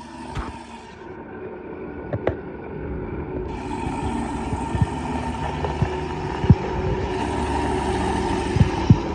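A truck engine with a loud aftermarket exhaust running, its rumble growing steadily louder, with several sharp pops over it, the loudest ones near the end.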